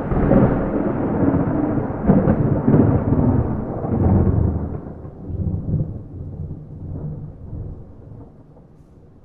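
A thunder roll with no rain: a loud low rumble with several louder cracks in the first four seconds or so, then slowly dying away to a faint rumble.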